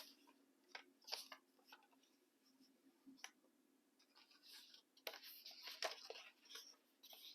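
Faint rustling and crinkling of scrap paper being handled, in short scattered bursts that are busiest about five to six and a half seconds in.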